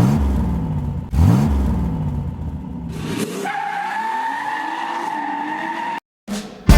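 A car engine revving hard twice in quick succession, then a long, steady, high-pitched tire squeal.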